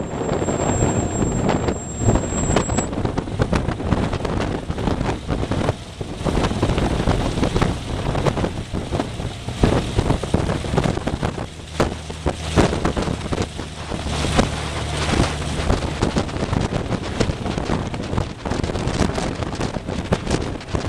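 Wind buffeting the microphone of a camera mounted on a vintage Cessna's tail, over the rumble of the plane's engine, with a steadier engine note coming through from about twelve seconds in.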